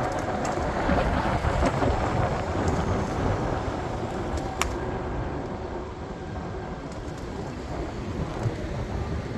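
PATH commuter train running on the tracks: a steady rumble, with a single sharp click about four and a half seconds in.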